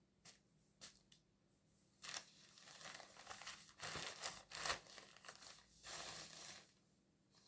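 A few light clicks, then about five seconds of crinkling and rustling, like something such as plastic or paper being handled.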